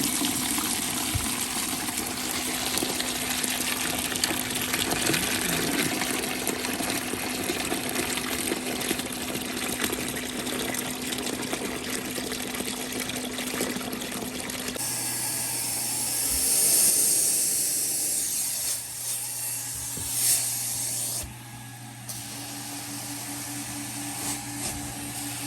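Heated portable carpet extractor running at hot water extraction, its wand spraying water and sucking it back up in a steady hiss. The sound changes about 15 seconds in and drops off sharply around 21 seconds.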